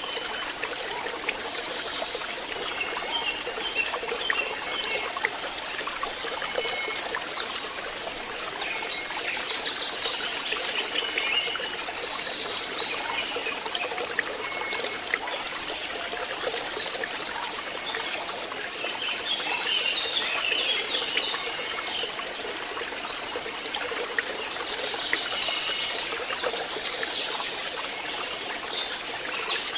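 Water trickling steadily into a fishpond, with clusters of short high notes now and then.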